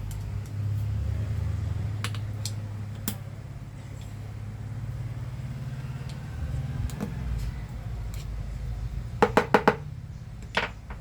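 Sharp metallic clicks and taps of hand tools working loose the stuck shell of a burst motor bearing from a handheld vacuum: a few scattered taps, then four quick ones close together about nine seconds in, over a steady low hum.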